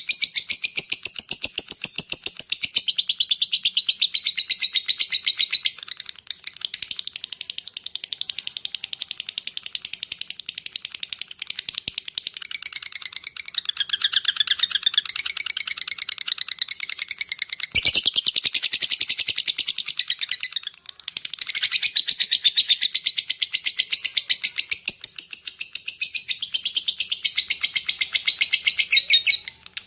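Lovebird giving a long, rapid, high-pitched chattering trill (the 'ngekek panjang' call), a fast run of pulses in long stretches broken by a few short pauses.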